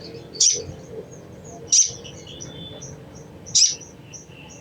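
Little spiderhunter (sogok ontong) giving three short, sharp, high chattering calls, a second or two apart, with fainter high twittering notes between them. These are the chattering calls used as a lure to set other birds calling.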